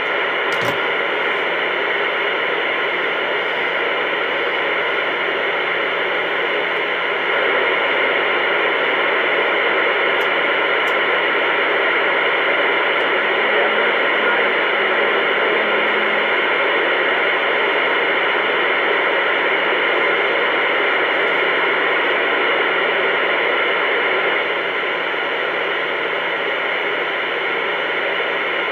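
Uniden Bearcat 980 CB radio receiving only static: a loud, steady hiss through the radio's speaker that switches on suddenly and runs on unbroken, a little louder from about 7 to 24 seconds in.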